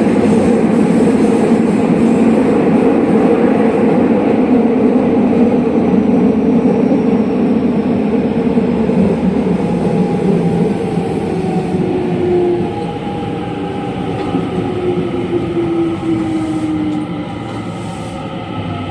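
Interior running sound of a JR West 207 series commuter EMU with its original traction motors: loud wheel-and-rail rumble at speed. From about halfway the noise eases and the motor whine falls steadily in pitch as the train slows.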